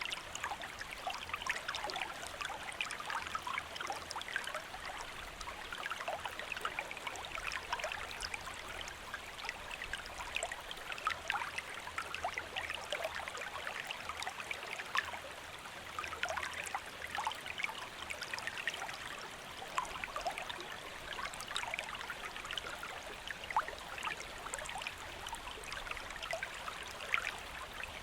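A shallow stream flowing steadily, with a continuous babble of small splashes and trickles over stones.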